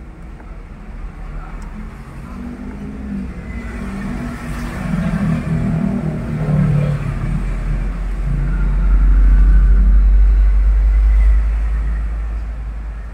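A motor vehicle's engine rumble builds over several seconds, is loudest about three-quarters of the way through, then fades away.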